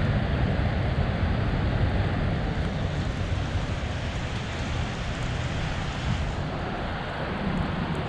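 Street ambience: a steady rumble of traffic, its upper hiss dropping away about six seconds in.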